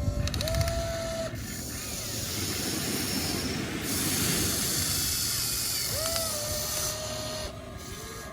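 Small electric motor of a radio-controlled excavator whining in short runs: it spins up and holds about a second, about half a second in and again around six seconds in, over a steady hiss that swells in the middle.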